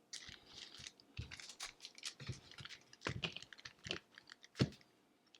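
Irregular crinkling and clicking of a hockey card pack's wrapper and cards being handled and opened, with a few louder taps scattered through.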